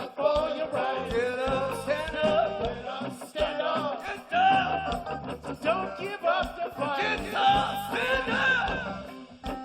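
Band playing a reggae song, with a sung vocal melody over bass and drums.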